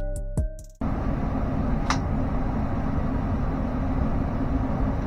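Electronic music ends just under a second in, then a furnace blower motor runs with a steady low hum. One brief high chirp sounds about two seconds in.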